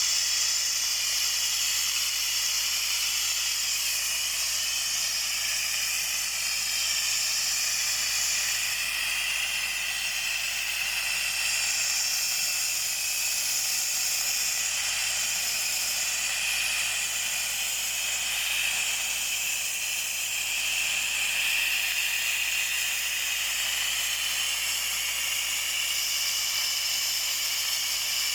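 Sandblasting nozzle spraying abrasive against a metal boat hull, stripping off old paint and primer, with a loud, steady hiss.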